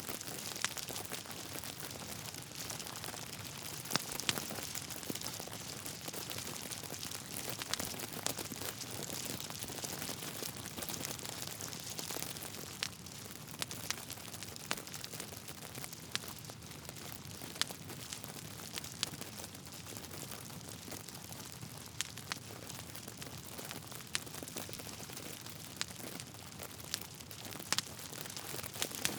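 Wood fire crackling: a soft steady hiss of burning logs with frequent sharp pops and snaps scattered irregularly throughout.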